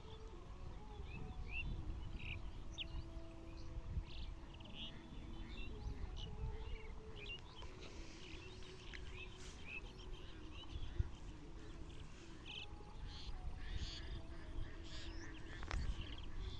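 Small birds chirping in short, scattered calls over a steady low rumble of outdoor background noise, with one sharp click partway through.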